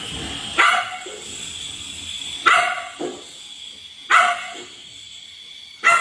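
A dog barking: four loud barks, each about a second and a half to two seconds apart, some with a quieter second bark close behind.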